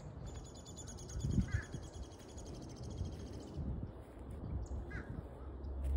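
Birds calling: a high, rapid trill for about three and a half seconds and a couple of short calls, over a low rumble on the microphone.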